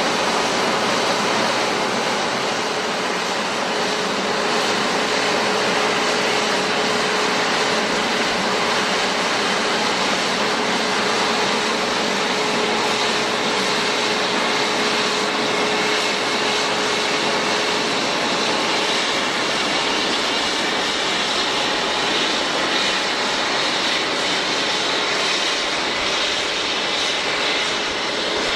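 Airbus A350's Rolls-Royce Trent XWB jet engines running, a loud steady rushing noise. A steady whine sounds over it for about fifteen seconds, and fainter high whistles come in near the end.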